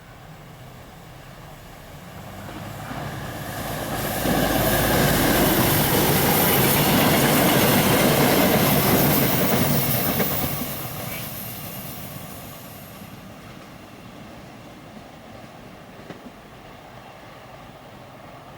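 A train passing by on the rails. It grows louder from about two seconds in, stays loudest for about six seconds, then fades away.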